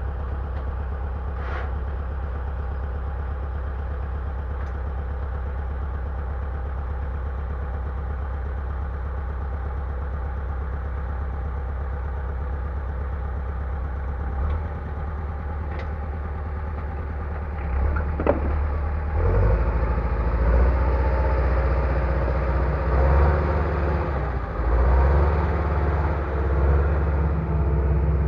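Engine of heavy logging equipment running steadily near idle, then working harder and louder and less even from about two-thirds of the way in. There are a few short metallic clanks along the way.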